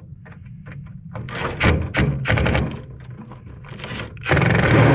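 Metal clacking and knocking as a scrap AC part is worked and pried apart by hand, a string of sharp separate knocks, then a louder, denser rattle of metal starting about four seconds in.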